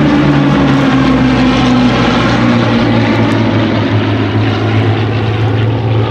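Rolls-Royce Merlin V12 piston engines of two Hawker Hurricanes flying past, a loud propeller-engine drone whose pitch falls over the first couple of seconds and then holds steady.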